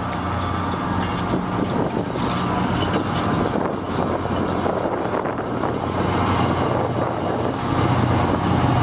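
MBTA commuter rail passenger coaches rolling past, their wheels rumbling on the rails, with a steady low hum underneath.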